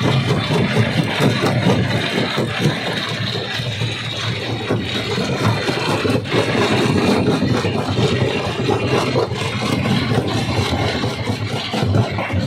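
Primary rock crusher working at a quarry: a steady heavy machine drone with rapid, irregular cracks and clatter of stone being broken running through it.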